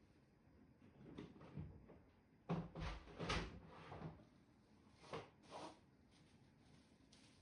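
A scattered run of knocks and clunks, like a drawer or cupboard being handled and things moved about, loudest in a cluster from about two and a half to three and a half seconds in.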